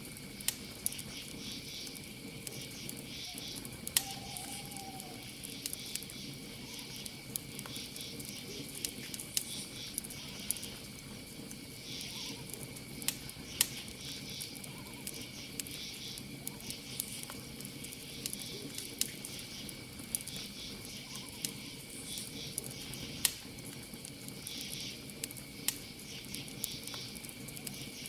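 Campfire crackling with frequent sharp pops, over a steady high insect trill and pulsing bursts of cricket chirps. A short arching call sounds once, about four seconds in.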